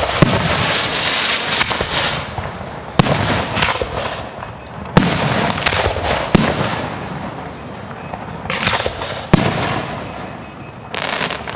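Fireworks display: shells bursting overhead with about five sharp bangs a second or two apart, and a steady crackle of sparkling effects between them.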